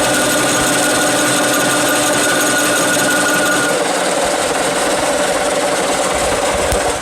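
Electric power tool running steadily while working metal, with a steady whine that changes about four seconds in.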